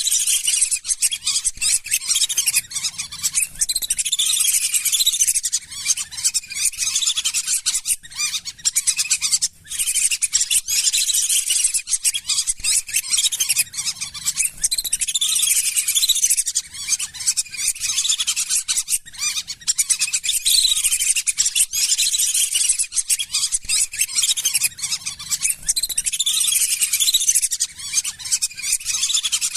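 A flock of lesser whistling ducks (belibis sawah) calling without a break: dense, overlapping high-pitched whistles and chirps. It is a bird-lure call recording.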